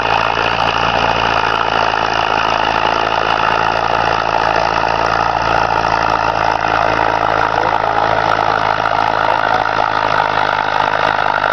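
Preet tractor's diesel engine running steadily, holding an even pitch.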